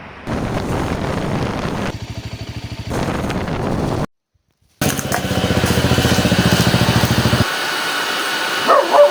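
Motorcycle engine running under way, with a steady pulsing exhaust beat that breaks off abruptly about four seconds in and comes back stronger.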